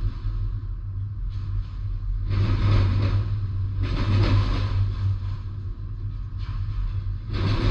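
Freight train of autorack cars rolling past, heard from inside a parked car: a steady low drone with a louder surge of wheel-on-rail noise every second or two.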